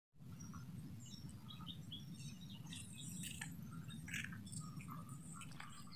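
Birds chirping faintly in short scattered calls over a low steady rumble.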